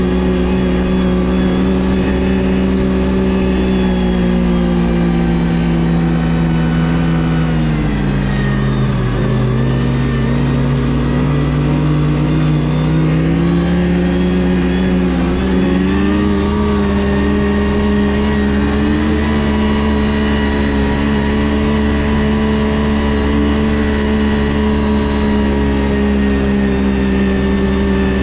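Ski-Doo GSX 600 HO snowmobile's two-stroke engine running on the trail. It eases off about eight seconds in, with the pitch dropping, then climbs back up and holds a steady speed for the rest of the time.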